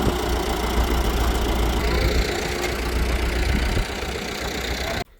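An engine running steadily with a low drone, cutting off abruptly near the end.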